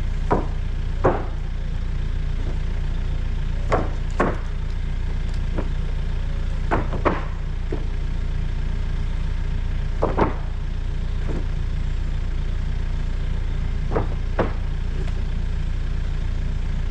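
A forklift's engine running steadily at a low idle, with about a dozen short sharp knocks, several in quick pairs, as the timber load is handled.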